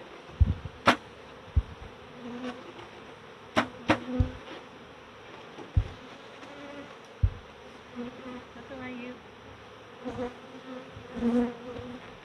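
Many honey bees buzzing in a steady drone around an opened hive. Several sharp clicks and a few low thumps come over it, the loudest about a second in and around four seconds in.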